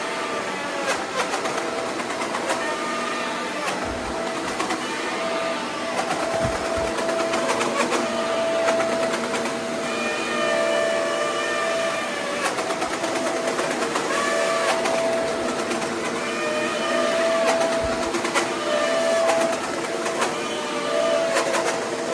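Shark Powered Lift-Away DuoClean vacuum cleaner running steadily, its motor whine with higher tones that rise and fall every couple of seconds.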